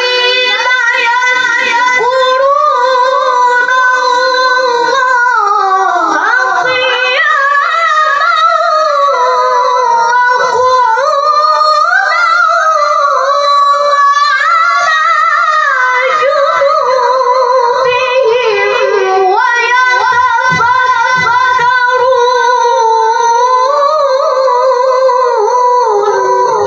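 A single high voice chanting a melodic Quran recitation (tilawah) without accompaniment, with long held notes and ornamented, wavering pitch runs that rise and fall between phrases.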